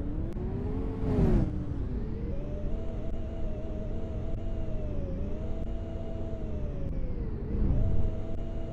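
Scania K230UB bus's diesel engine heard from on board, its pitch climbing and dropping back several times as the automatic gearbox shifts, then easing to a steady low run near the end. A short noisy burst about a second in.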